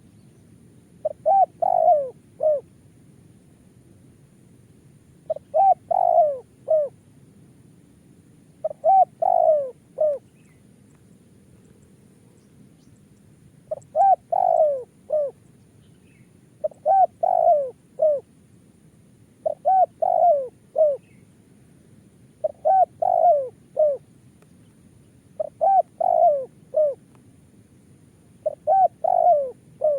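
Spotted dove (tekukur) cooing: short phrases of a few low notes, the last one falling, repeated about every three seconds.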